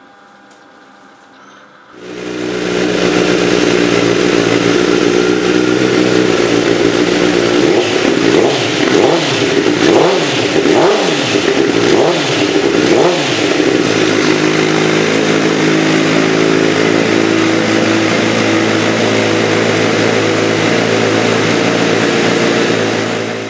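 2008 Honda CBR1000RR inline-four running through a Racetune aftermarket exhaust. It comes in about two seconds in at a steady idle, is blipped up and down about six times in the middle, then settles back to a steady idle until it cuts off at the end.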